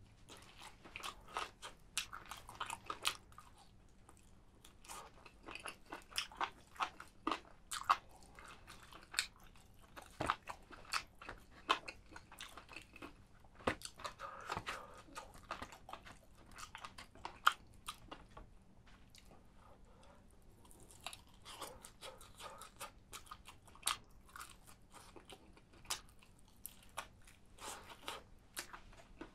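A person chewing and crunching spicy chicken close to the microphone: irregular crisp bites and wet chewing sounds.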